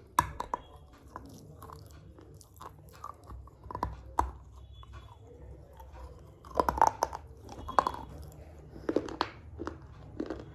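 Close-up crunching and chewing of pieces of a small baked red clay pot: irregular sharp crunches and bites, coming in tight clusters about two-thirds of the way through and again near the end.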